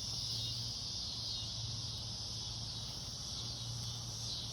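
Steady, shrill chorus of insects, with a low hum underneath that fades in and out.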